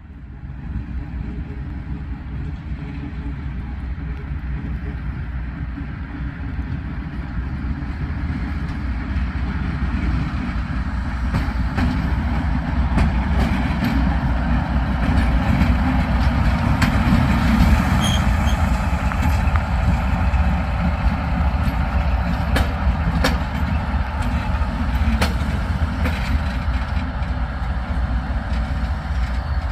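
A train running past close by: a heavy rumble that builds over the first half and then eases a little, with sharp clicks of the wheels over the rails through the middle.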